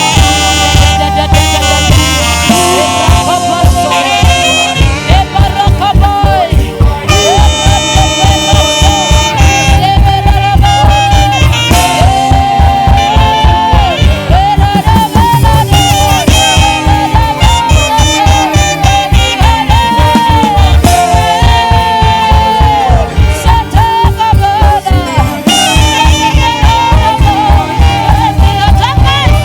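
Live saxophone playing a melody of long held, bending notes over a band with bass and keyboard; a steady, driving drum beat comes in about four seconds in.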